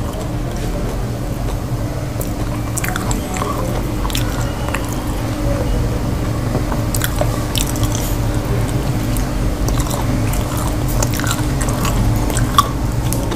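Close-miked chewing and mouth sounds of a man eating potato-and-cauliflower curry with roti by hand: soft wet smacks and many small clicks, over a steady low hum.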